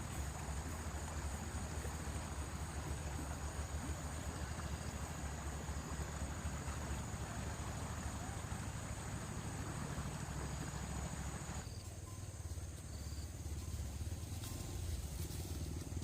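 Insects chirring in one steady high note over a constant low rumble; the insect sound cuts off suddenly about twelve seconds in, leaving the rumble.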